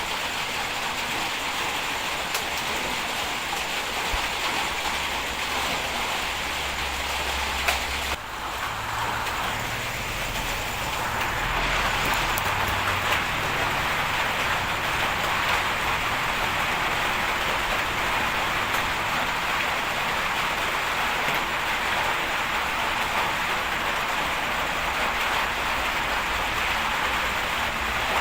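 Heavy bulldozer working: a steady noisy rumble of engine and running gear, which changes abruptly about eight seconds in.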